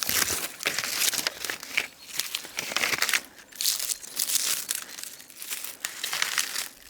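Loose bark being peeled and torn off a tree by hand, crinkling and crackling in irregular bursts.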